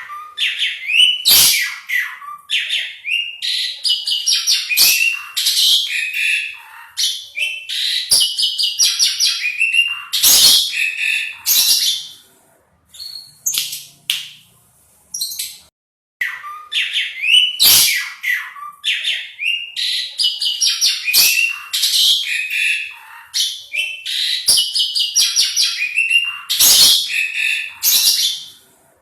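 Asian pied starling (jalak suren) singing in full voice: a long, varied song of whistles, sharp clicking notes and harsh chattering delivered in rapid phrases. The song breaks off about twelve seconds in, leaving a few scattered notes, then resumes with the same run of phrases.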